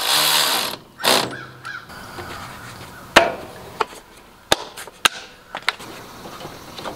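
Hand tools clinking on a mower battery terminal as the battery is reconnected: a brief burst of rustling noise at the start, then a string of separate sharp metallic clicks.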